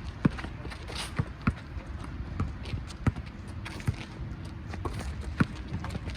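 A basketball bouncing on a court amid players' running footsteps: a series of irregular sharp thuds over the low rumble of play.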